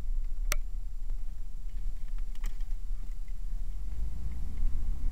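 Low, steady rumble of a vehicle running, with a sharp click about half a second in and a few fainter clicks later on.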